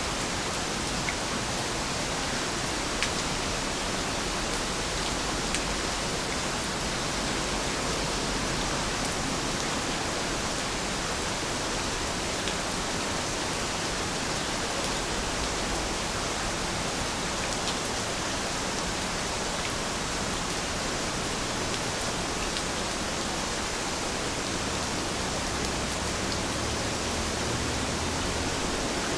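Heavy rain falling steadily, a dense, even hiss with a few sharper drop ticks now and then.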